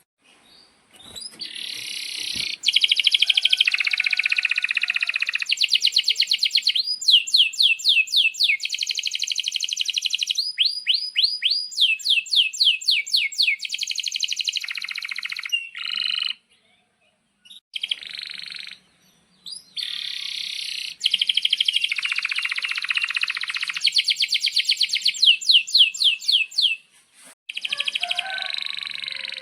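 Male domestic canary singing a long song of fast rolls and trills, with runs of quick down-sweeping notes. It starts about a second in, with a few short pauses around the middle and another near the end.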